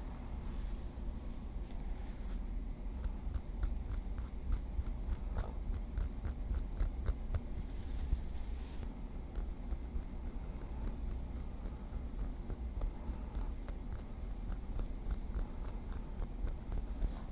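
Light, quick taps of a small wooden stick, about four a second, in runs broken by short pauses, over a steady low rumble.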